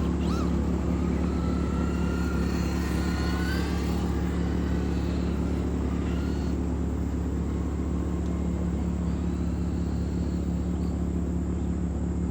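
RC car motor whining and rising in pitch as the car speeds up, then fading, over a steady low drone.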